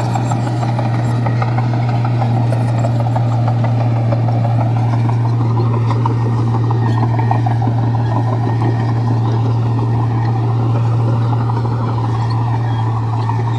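Komatsu bulldozer's diesel engine running steadily under work, a loud low drone whose pitch rises and falls slightly around the middle.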